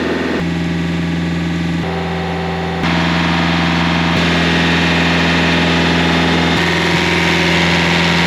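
An engine running steadily at an even speed, its tone shifting abruptly a few times.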